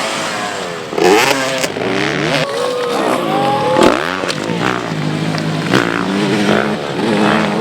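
Several motocross motorcycle engines revving at once, their pitches rising and falling as riders open and close the throttle, with a sharp rev about four seconds in.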